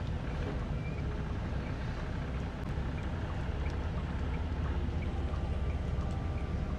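Steady low rumble of the truck's engine running, with a faint hiss and light crackling from lamb and vegetables cooking in the pan.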